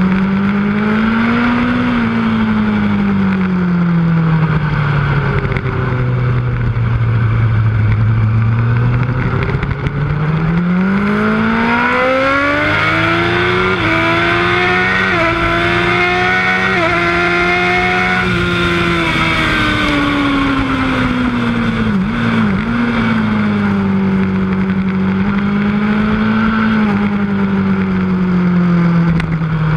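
Yamaha R1 sportbike's inline-four engine at track pace: the note falls and rises gently through corners, then climbs for several seconds under hard acceleration in the middle before falling away, with a quick dip and jump in pitch about three-quarters of the way through.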